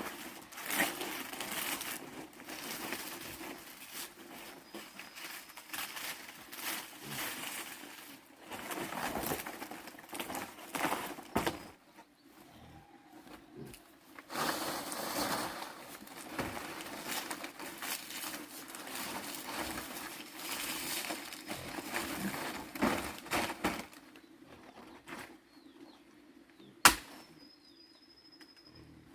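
Irregular rustling and crackling, like dry material being handled, in two long stretches with a short pause between. One sharp click comes near the end.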